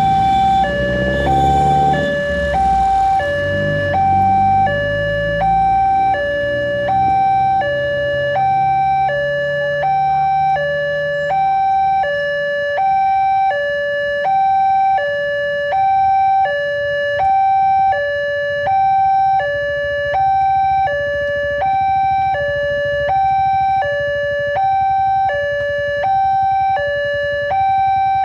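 Railway level-crossing warning alarm: an electronic two-tone signal switching steadily between a higher and a lower tone, each held about three-quarters of a second, warning that a train is approaching. For the first dozen seconds a low engine rumble with changing pitch sounds underneath, then fades.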